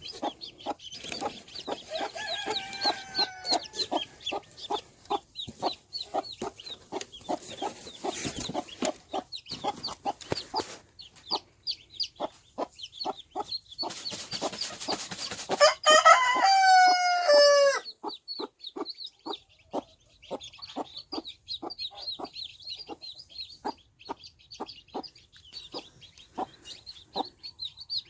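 Mother hen clucking over and over while chicks peep. A little past the middle, a short loud burst of noise is followed by a loud rooster crow whose pitch falls at the end.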